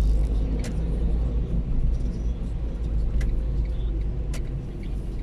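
Vehicle driving in the rain: a steady low road rumble, with a few short sharp clicks.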